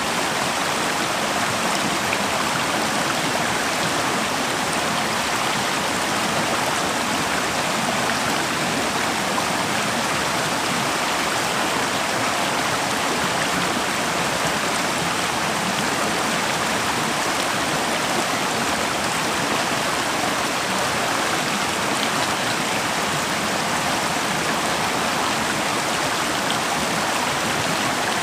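River water flowing and rushing steadily over rocks in a winter forest stream.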